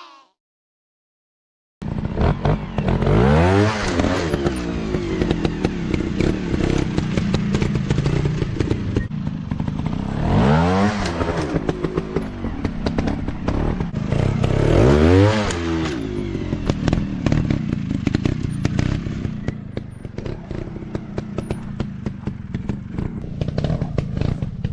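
Motocross bike engine running hard, with a rapid pulsing beat. It starts about two seconds in and revs up and back down three times, around the 3-, 10- and 15-second marks.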